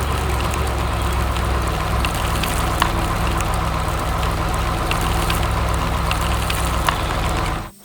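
Heavy vehicle engine idling steadily with a deep, even rumble and a few faint clicks; it cuts off abruptly near the end.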